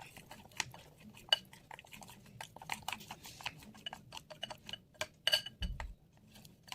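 A spoon stirring cake batter in a bowl, clinking irregularly against the side several times a second.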